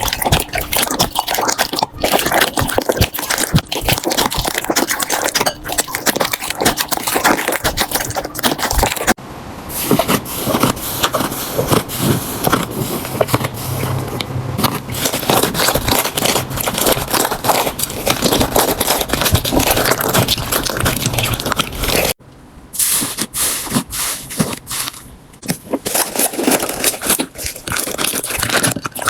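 Slime being pressed, poked and stretched by hand, giving dense crackling and popping. The sound changes abruptly twice, as one clip gives way to the next.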